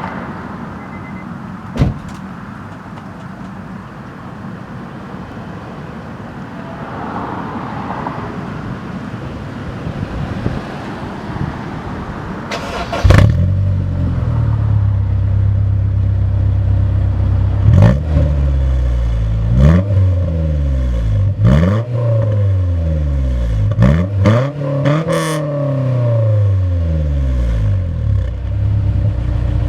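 Honda S2000's four-cylinder engine, breathing through an ASM 60 mm exhaust with a Vibrant resonator, starting about halfway through and settling into a steady idle. It then gets five or six quick blips of the throttle, each revving up and dropping straight back.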